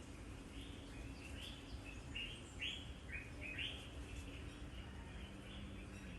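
Birds chirping, short calls repeated one or two a second, over a steady low background rumble.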